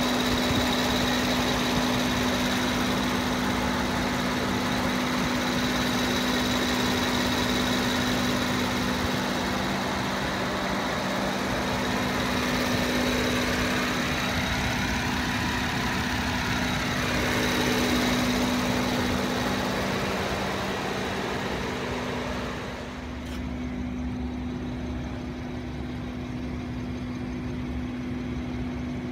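Rolls-Royce Wraith's 6.6-litre twin-turbo V12 idling steadily, heard at the open engine bay. It is a constant hum with a faint high whine over it. About three-quarters of the way through it becomes quieter and duller.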